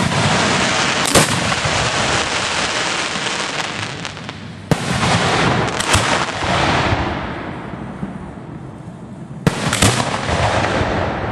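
Fireworks set off at close range from ground racks: three sudden launches about four and a half seconds apart, each followed by a long hissing rush that slowly fades, with a sharp crack about a second after each.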